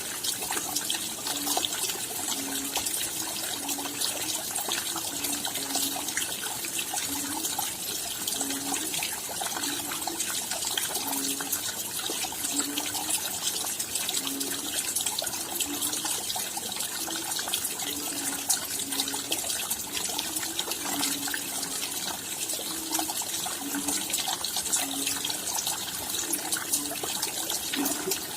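Steady rainfall, a dense patter of fine drop ticks. A short, low pitched note also repeats irregularly about once or twice a second.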